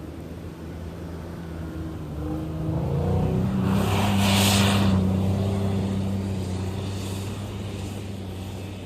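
Nissan Xterra's V6 engine revving up under load as the SUV pushes through deep snow, then easing back. A brief hissing rush comes at the loudest point, about four seconds in.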